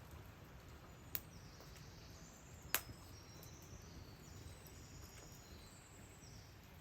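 Faint forest ambience: short, high bird chirps over a low steady hush, with two sharp clicks about one and three seconds in, the second the louder.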